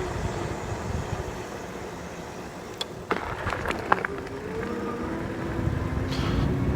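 Wind and tyre rush from a moving electric bike, with a few sharp clicks around the middle. From past the halfway point, the 1800 W electric motor's whine rises steadily in pitch as the bike accelerates.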